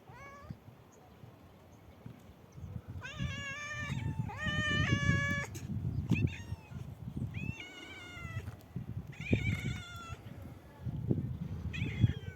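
Young black cat meowing repeatedly, about six drawn-out meows, each half a second to a second long.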